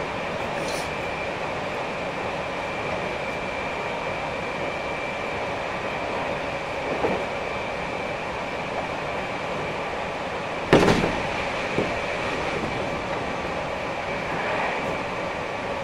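Running sound of a Meitetsu 2300 series electric train heard from inside the car: a steady rumble with a high whine. A single sharp clack of the wheels about eleven seconds in, with lighter knocks a few seconds before and just after.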